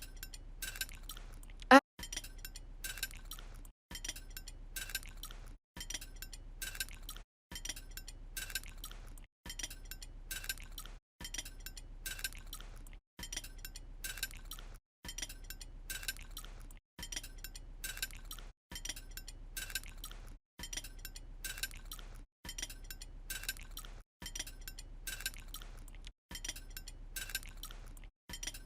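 Light clicking and clinking that repeats in near-identical stretches of about two seconds, each cut off by a brief dropout, with one sharper click a little under two seconds in.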